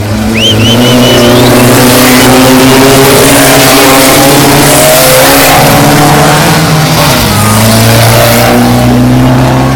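Volkswagen race car engine running loud at high revs. Its pitch holds steady, drops once about seven seconds in, then holds again.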